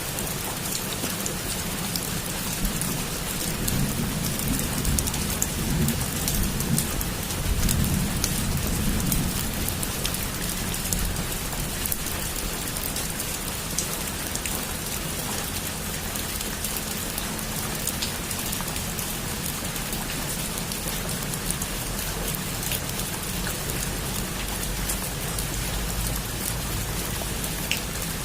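Heavy rain falling steadily, with individual drops ticking sharply on a surface. A low rumble of distant thunder swells and fades between about three and ten seconds in.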